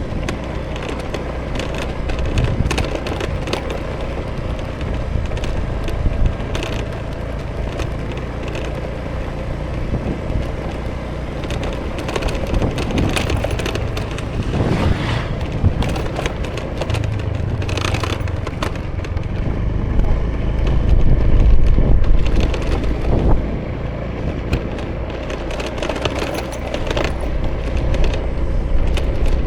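Honda Vision 110 cc single-cylinder scooter running at riding speed, its engine and tyre noise mixed with wind on the camera microphone and scattered small knocks and clicks from the road. It grows louder for a few seconds about two-thirds of the way through.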